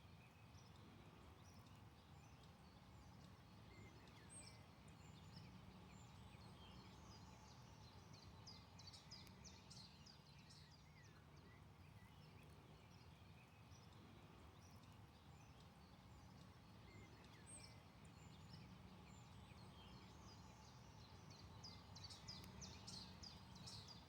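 Faint birdsong: scattered high chirps and two bursts of rapid trills, about a third of the way in and near the end, over a low steady hum.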